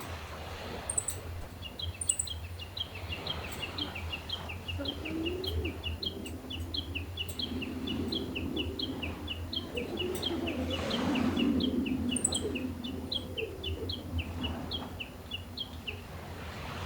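A small bird calling in a long run of quick, short chirps, several a second, over gentle sea waves washing on the shore, with a wave swelling louder about ten seconds in.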